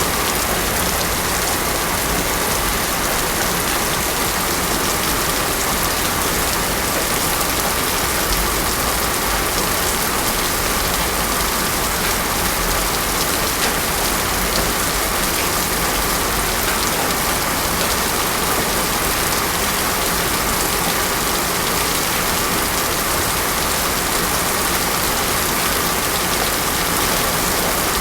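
Heavy rain falling steadily on a road, a dense, even hiss with no thunder.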